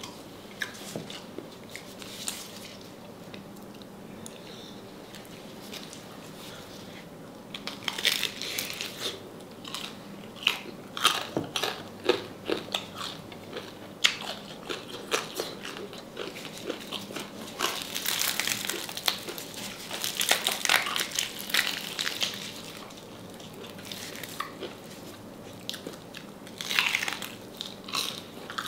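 Biting and chewing on crispy deep-fried salted pork knuckle skin: bursts of crackling crunches with quieter stretches of chewing in between.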